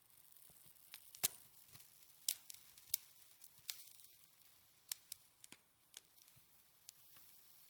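Snow being crunched close to the microphone: about a dozen short, sharp crackles at irregular intervals, with soft hiss between them.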